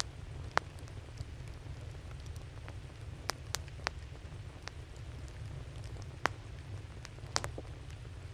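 Burning wood crackling in a campfire: irregular sharp pops, the loudest about half a second in and around six seconds, over a steady low rumble.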